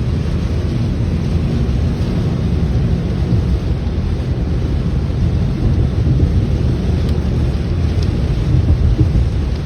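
A loud, steady low rumble of wind buffeting the microphone in a rainstorm, with rain noise mixed in.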